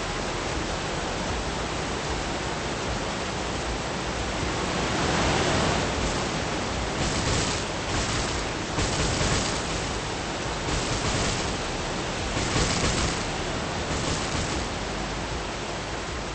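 Steady rushing noise with several swells of hiss, the loudest about five seconds in.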